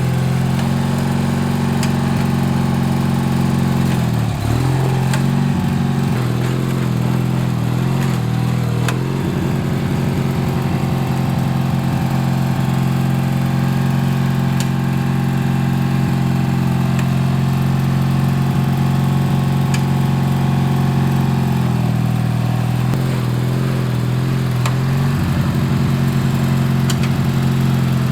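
Craftsman LT4000 lawn tractor's vertical-shaft engine running steadily. Its pitch dips sharply and recovers about four seconds in, and wavers again near the end, as the engine's speed sags under load.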